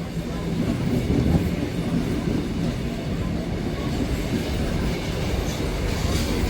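Railway carriage of a steam excursion train running along the track, a steady low rumble of wheels on the rails.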